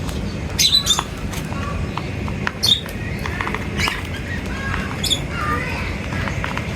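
Birds giving short, sharp chirps and squawks, a handful of separate calls with a few warbling notes near the end, over a steady low background noise.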